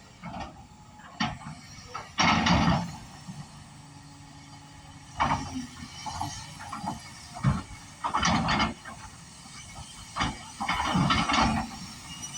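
Kobelco 380 excavator working, with a low steady engine sound under repeated loud, harsh metallic bursts, each lasting under a second and coming every one to three seconds.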